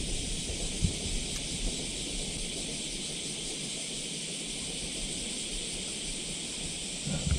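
Dense, steady chorus of cicadas, a continuous high hiss, with a short low bump about a second in.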